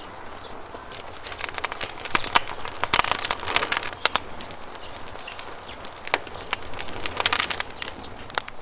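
Wood campfire crackling and popping, with a dense run of sharp snaps from about one to four seconds in and another cluster about seven seconds in, over a faint steady rush of running water.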